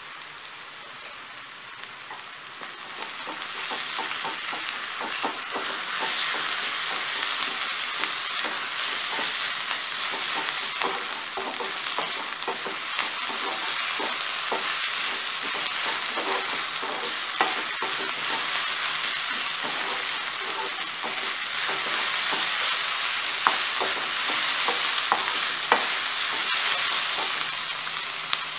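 Onions, curry leaves, mint and ginger-garlic paste sizzling in hot oil in a non-stick kadai while a metal spatula stirs and scrapes the pan with frequent clicks. The sizzle grows louder a few seconds in, once the stirring gets going.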